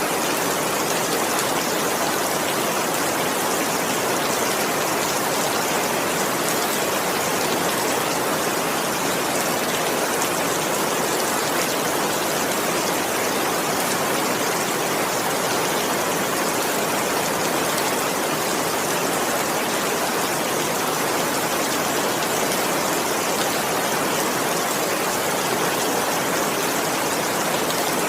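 Steady heavy rain, an even hiss with no let-up.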